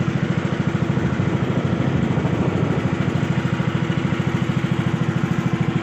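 Small engine of a motorized bangka running steadily at an even speed, a fast regular putter with a low hum underneath.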